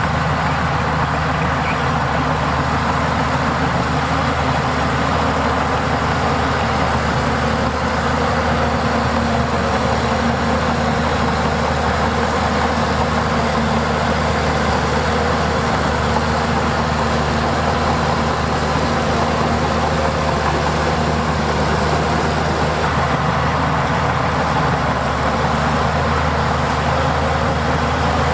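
Diesel engine of heavy earthmoving machinery running steadily, with a constant low drone.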